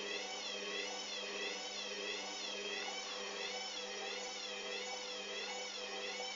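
Hoover Dynamic washing machine motor whining, its pitch wavering up and down about twice a second over a steady low hum.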